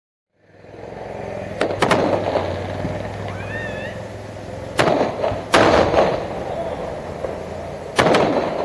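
Fireworks going off: sharp bangs, a pair about two seconds in, another pair about five seconds in and one more near the end, each trailing off.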